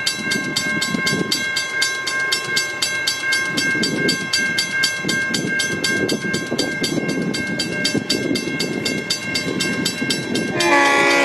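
Western Cullen Hayes mechanical crossing bell ringing fast and evenly, about five strikes a second, over the rumble of an approaching V/Line N-class diesel locomotive. The locomotive's horn sounds near the end.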